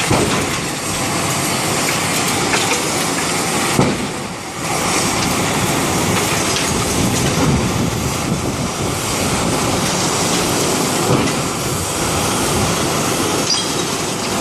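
Demolition machinery working on a concrete building: a loud, steady, dense clatter and rumble, dipping briefly about four seconds in.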